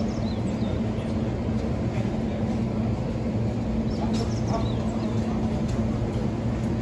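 Steady low hum of an electric train, with a few faint high chirps over it.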